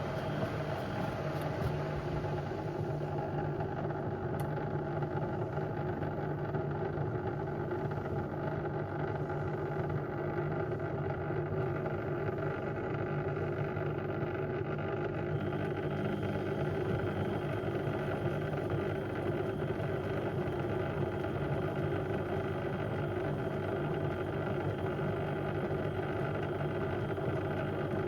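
Beko WM74135 washing machine running with a steady mechanical hum and whir.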